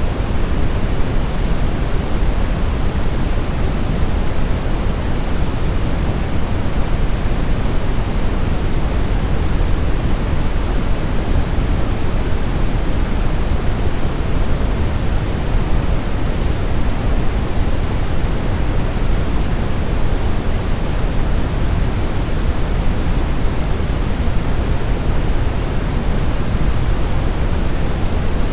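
Steady brown noise: an even, deep rushing hiss, strongest in the low end and falling away toward the treble, with no changes or events.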